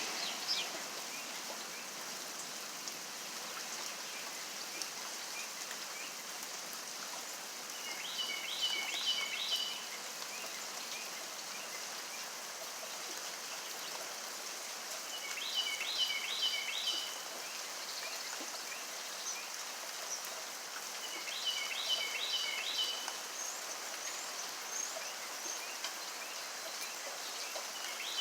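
Steady rain falling. A bird repeats the same short song of five or six quick high notes four times, about every six to seven seconds, with a few faint chirps in between.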